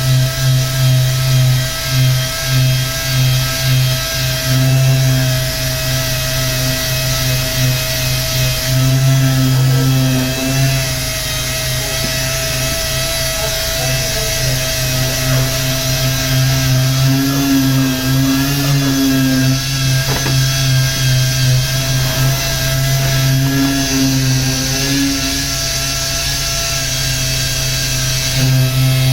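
Power sander running steadily, sanding paint off a car body panel; its hum wavers slightly as the load changes.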